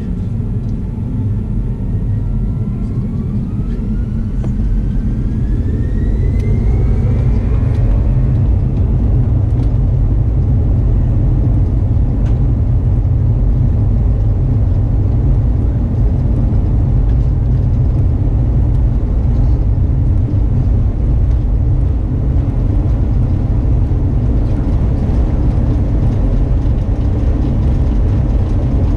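Airbus A340-300 jet engines spooling up to takeoff thrust, heard from inside the cabin. A whine rises in pitch over the first several seconds while the rumble grows louder. Then comes the steady, loud engine and rolling noise of the takeoff run.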